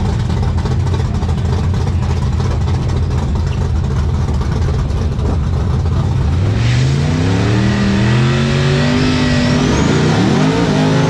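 Drag-racing pickup truck's engine running with a steady heavy rumble, then from about six seconds in revving and accelerating hard, its pitch climbing and climbing again near the end, with a high whine rising over it.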